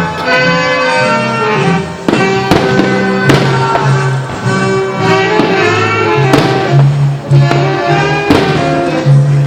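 Music over loudspeakers accompanying a fireworks display, with several sharp firework bangs bursting through it.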